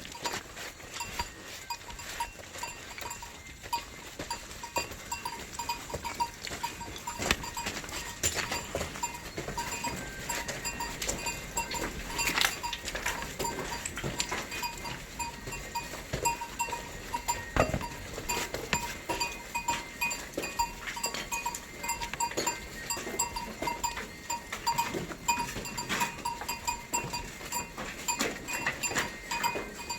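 Flock of sheep on the move, small neck bells clinking almost continuously among scattered clicks and knocks.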